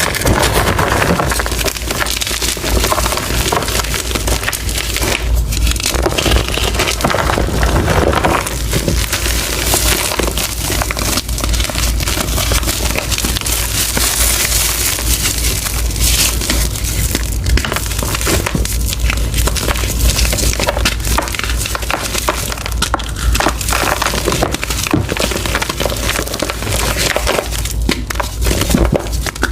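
Gym chalk being crushed and crumbled by hand: a dense, unbroken crunching and crackling of the pressed chalk breaking into powder.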